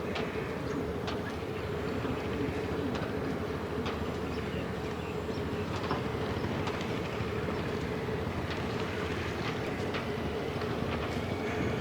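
A steady mechanical rumble with a constant hum running under it and scattered light clicks.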